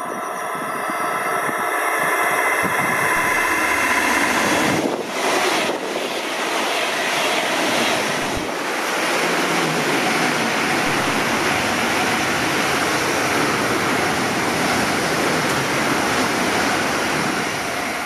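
ICE high-speed train passing close at speed: a loud, steady rush of air and wheels on the rails, falling away quickly at the very end as the last car goes by.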